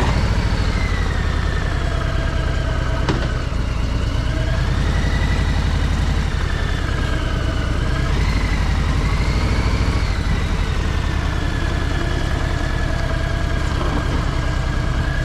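Harley-Davidson Low Rider S's Milwaukee-Eight V-twin engine running steadily at idle, with a faint wavering whine above the rumble.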